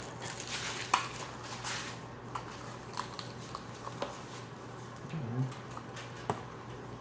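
Snack packaging being handled: plastic wrappers crinkling for the first couple of seconds, then scattered small clicks and taps as the packets are moved about. A brief low hum about five seconds in.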